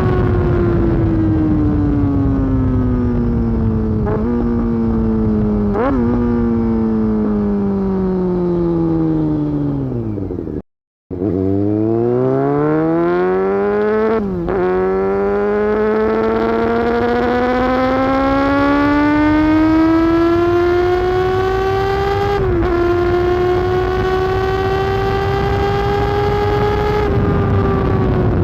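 A 1999 Honda CBR600F4 inline-four with a Delkevic aftermarket exhaust. The revs fall steadily as the bike slows, with two short blips on the way down. After a brief cut it accelerates hard, the pitch climbing and dropping at two gear changes, then holds at high revs before easing off near the end.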